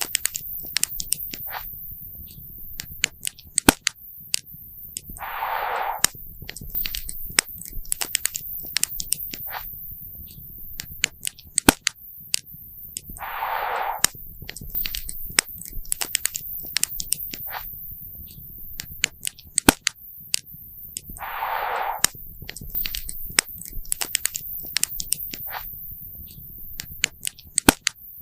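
Wood campfire crackling and popping, with sharp irregular snaps over a low steady rumble of burning. Three times, about every eight seconds, a short rushing noise of about a second rises over the crackle.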